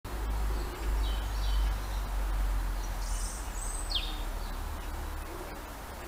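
Wild birds chirping outdoors: a few short high chirps, then a brighter chirp and a quick falling whistle about three to four seconds in, over a steady low rumble.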